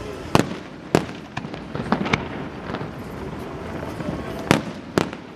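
Aerial fireworks bursting overhead: a string of sharp bangs, loudest twice in the first second and twice near the end, with smaller crackles and pops in between.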